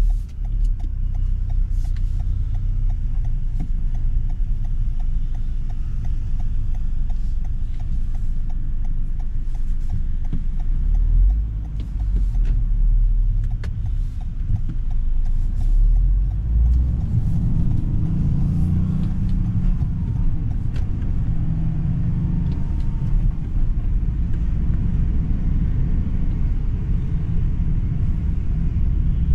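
Stock Toyota GR Yaris's G16E-GTS 1.6-litre turbocharged three-cylinder engine driving in city traffic: a steady low rumble, with the engine's pitch rising and falling about halfway through as the car accelerates.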